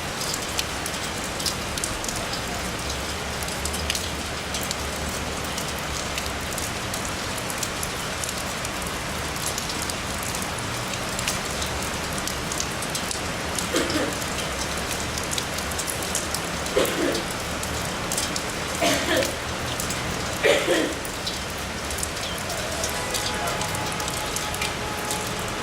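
Steady noise of heavy rain and running water, with fine scattered drop ticks throughout. In the second half, a few short voice-like calls stand out above it.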